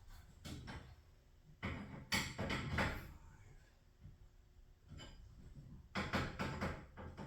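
Irregular clusters of knocks and clatters of tools against metal garage door hardware, with a quieter stretch in the middle.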